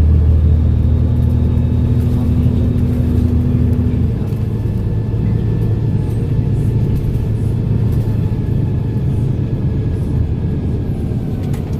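Volvo B7RLE bus's six-cylinder diesel engine running steadily under way, with a faint turbo whistle above the engine drone. The engine note shifts and drops slightly about four seconds in.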